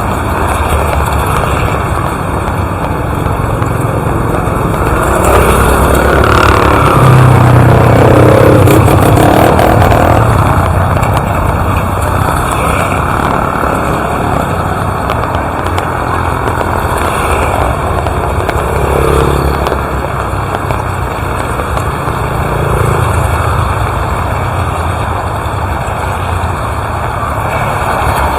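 Steady rain falling, with a motor vehicle going past; the engine swells up and fades between about 5 and 11 seconds in, and fainter engine swells come about two-thirds of the way through.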